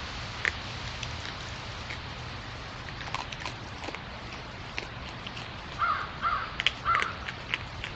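A bird gives three harsh, crow-like caws in quick succession about six seconds in, over scattered small clicks and ticks.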